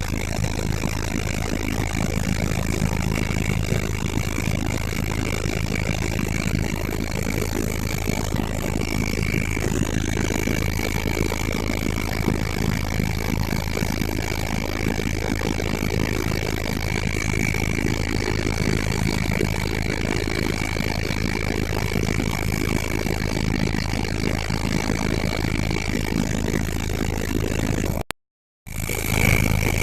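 Helicopter engine and rotor running steadily: a low drone with a steady high whine over it, broken by a half-second gap near the end.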